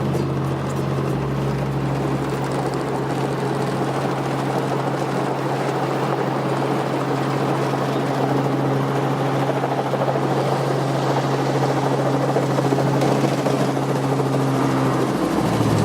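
Helicopter in flight: a steady drone of rotor and engine with a constant low hum, which dips slightly in pitch near the end.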